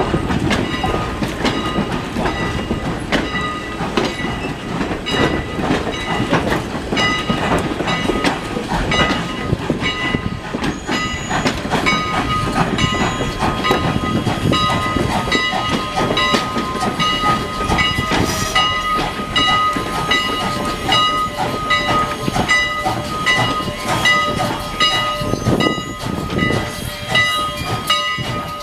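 A train's cars rolling past, wheels clicking steadily over rail joints. A steady high-pitched squeal joins in about seven seconds in and grows louder from about twelve seconds on.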